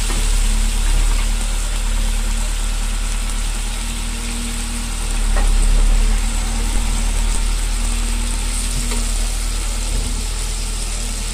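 Pork, tomato and carrots sizzling in hot oil in a carbon-steel wok, with the odd light scrape of a metal spatula, over a steady low hum.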